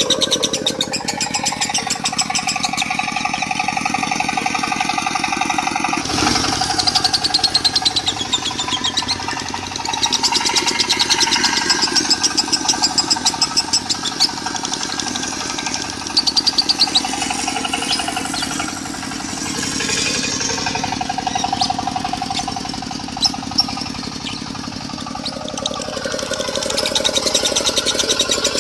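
Lovebird singing in long, rapid chattering trills of the 'konslet' style, mixed over a diesel engine running steadily underneath.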